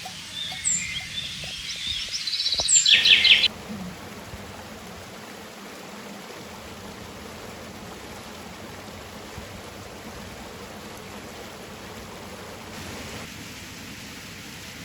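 Songbirds chirping over a flowing river, ending in a loud, fast trill. About three and a half seconds in the birdsong cuts off abruptly, and only the steady rush of the river water remains.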